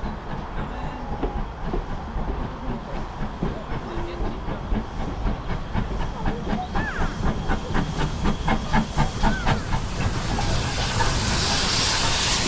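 Steam locomotive working, with a rhythmic chuffing of about three beats a second in the middle, then a loud steady hiss of steam from about ten seconds in.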